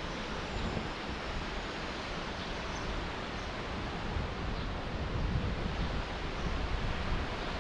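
Steady rushing roar of the Baatara gorge waterfall plunging into its limestone sinkhole, with wind gusting on the microphone.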